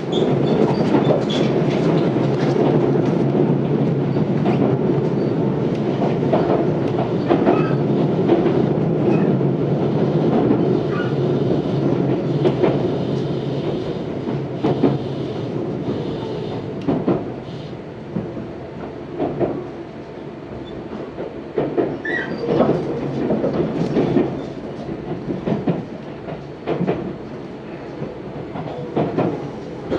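Running noise of a Tobu 634-series train heard from inside the car: a steady rumble with wheels clacking over rail joints. It grows quieter about halfway through, with more spaced-out clacks after that, as the train slows.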